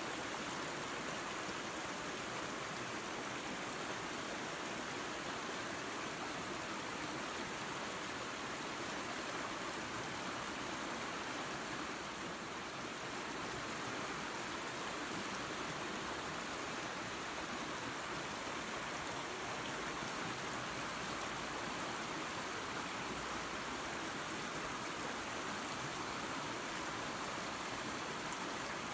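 Small waterfall and creek water running: a steady, even rush with no breaks.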